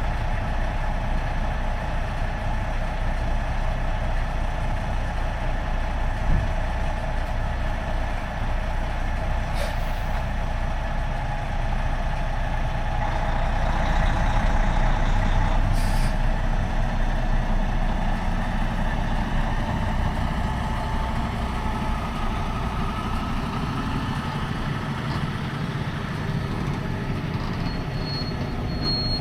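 Semi truck running with a steady engine and road rumble, a couple of short clicks along the way, and a thin high squeal that starts near the end.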